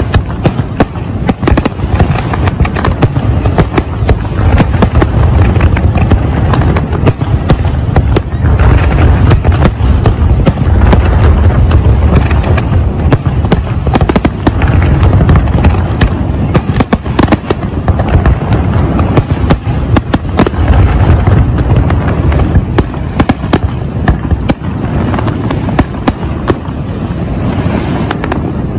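Aerial fireworks barrage: many shells bursting in quick succession, dense sharp bangs and crackles over a continuous low rumble. The bursts thin out near the end.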